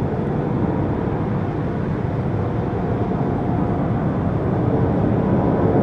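Jet airliner engines running, a steady noise with a faint whine that grows gradually louder.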